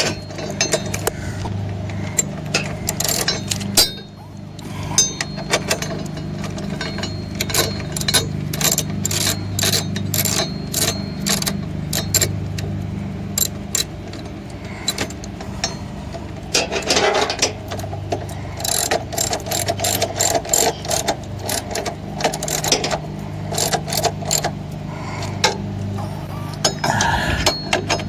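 A hand socket ratchet clicks in repeated strokes as a 13 mm bracket bolt is tightened down, over a steady low hum.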